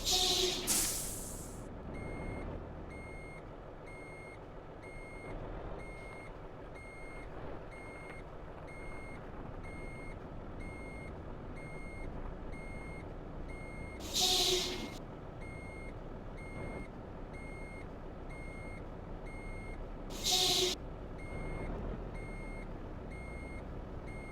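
Truck reversing alarm beeping at an even pace over a low idling engine, with short loud air hisses, like air-brake releases, twice near the start and again about 14 and 20 seconds in.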